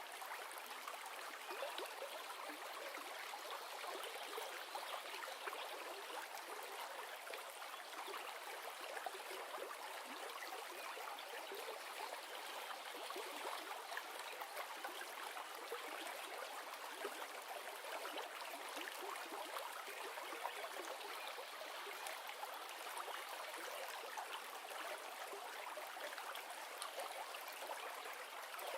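River or stream water running steadily, a continuous rushing and babbling used as background noise.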